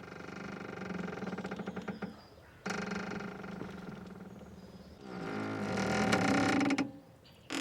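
A boat's rope squeaking under strain: three long drawn-out creaks, the third the loudest, with another starting near the end.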